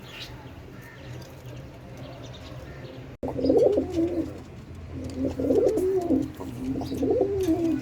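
Domestic pigeons cooing, a run of repeated rolling coos that starts abruptly about three seconds in. Before that there are only quieter loft sounds.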